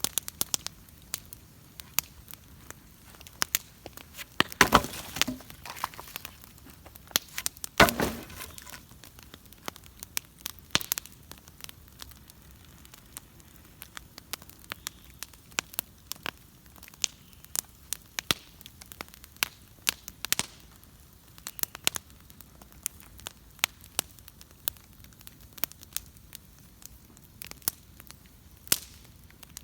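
Bonfire crackling and popping with irregular sharp snaps, over a faint steady hiss. Two louder, denser flurries of pops come about five seconds in and again about eight seconds in.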